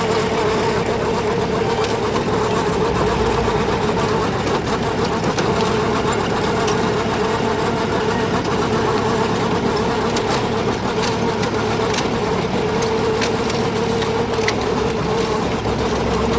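JCB 3DX backhoe loader's diesel engine running steadily under work, with scattered faint clicks over the top.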